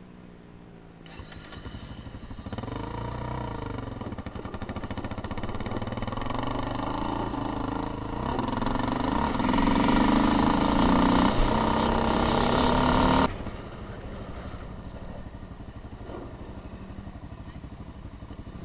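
Off-road vehicle engine being ridden, its pitch rising and falling with the throttle and growing louder as it comes closer. About two-thirds through the sound drops off suddenly, leaving a quieter steady engine sound.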